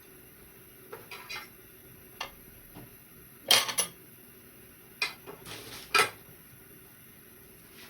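Dishes and cutlery clattering in a kitchen: a string of separate clinks and knocks, the loudest about three and a half seconds in and again near six seconds.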